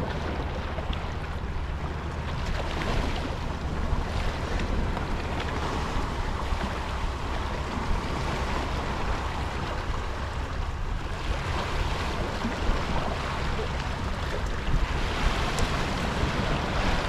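Sea surf washing against shoreline rocks, with wind rumbling on the microphone and a few small knocks near the end.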